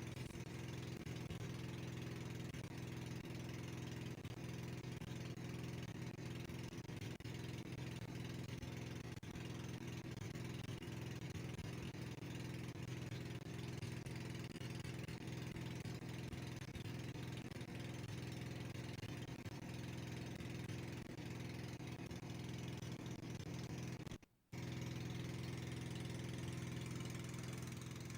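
Boat engine running steadily, a constant low drone, broken once by a brief gap a few seconds before the end.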